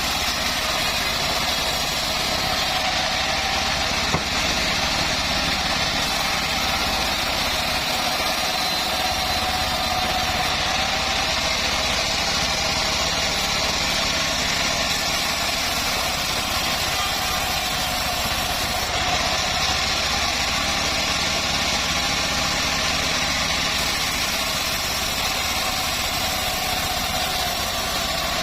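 A homemade engine-driven bandsaw mill running steadily with an even engine drone and whirr. A single small click about four seconds in.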